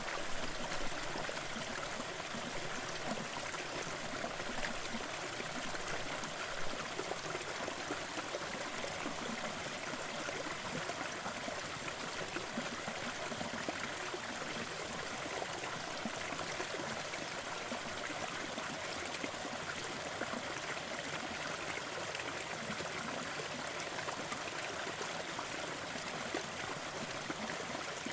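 Waterfall: falling water splashing and rushing in a steady, even hiss.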